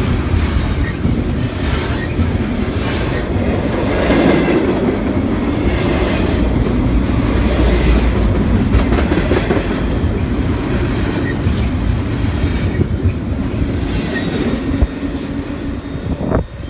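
CSX double-stack freight train rolling past at close range: a loud steady rumble of the cars, with the wheels clacking repeatedly over the rail joints. The noise falls away in the last second or two.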